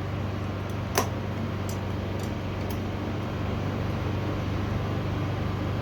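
Steady low machine hum, with one sharp click about a second in and a few faint ticks after it.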